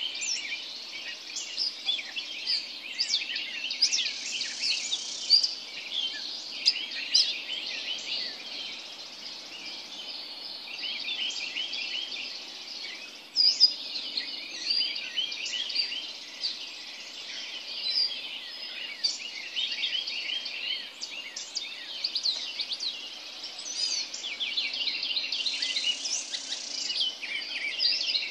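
Pre-dawn chorus of many birds calling at once: a dense, continuous tangle of short high chirps and trills, with no single song standing out.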